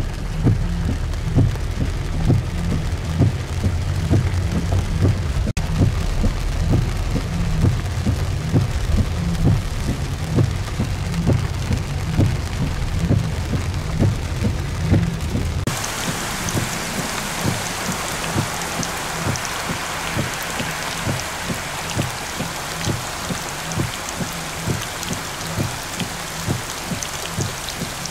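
Heavy rain pouring down onto a flooded street, a loud steady wash of rain noise. For the first half a low rumble runs under it. About halfway through the sound changes abruptly to a brighter, hissier downpour with little low end.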